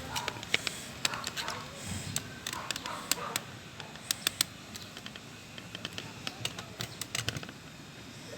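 Irregular sharp clicks and taps, some in quick clusters: hand tools working on a van's sheet-metal side panel.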